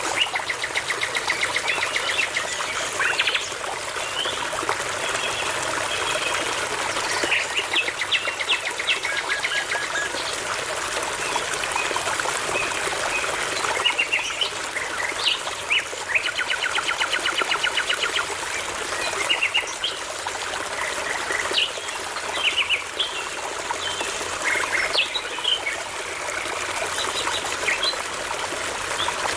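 Songbirds singing in short phrases of fast repeated notes and trills over the steady sound of a babbling brook.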